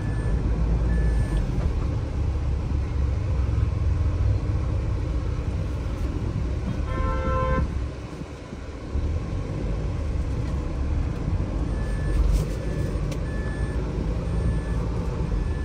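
Steady low rumble of a 2023 Force Gurkha's diesel engine and road noise, heard from inside the cabin while driving. About seven seconds in a vehicle horn sounds briefly, and the engine sound drops for about a second just after. Short beeps repeat near the start and again near the end.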